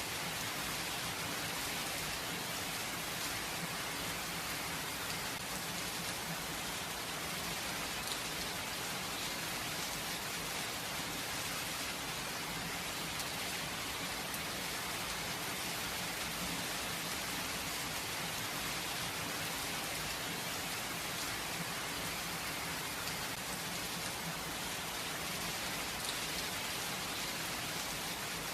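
Steady rain falling, with a continuous hiss and faint scattered drop clicks, no thunder.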